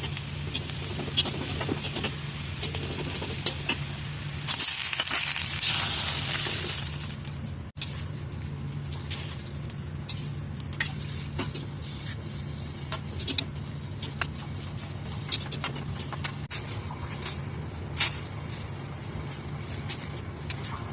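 Food frying in a pan: a steady sizzle with many scattered clicks, swelling to a louder hiss about four seconds in for about three seconds, over a low steady hum.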